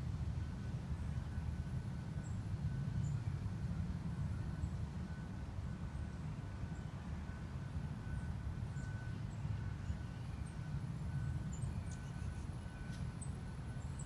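A steady low outdoor rumble, with faint, scattered high chips and thin calls of small birds over it, a few sharper near the end.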